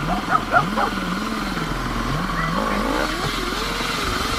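Enduro dirt-bike engine being ridden, its revs rising and falling again and again with the throttle, then climbing higher about three seconds in. Four short sharp sounds in the first second stand out above the engine.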